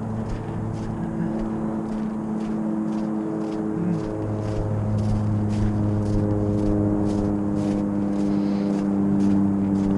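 Vehicle drivetrain hum while climbing a hill in snow, steady with a pitch that steps up about halfway through as it gathers speed, over road noise and a faint regular ticking.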